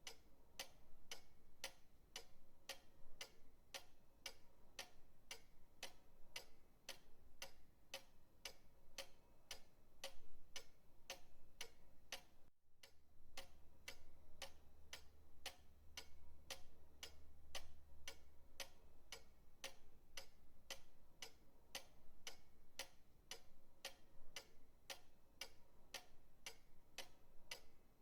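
Pendulum clock ticking steadily at about two ticks a second, with a brief break in the ticking about twelve seconds in.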